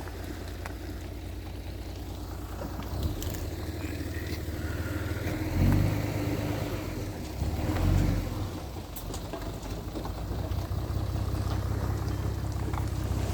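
Heavy diesel earthmoving machinery running steadily at a low drone, with two short louder surges of the engine a little past halfway.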